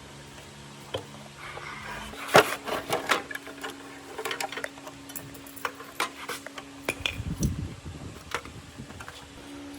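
Irregular clinks, knocks and scraping of tools and metal parts being handled, the loudest knock about two seconds in, over a faint steady hum.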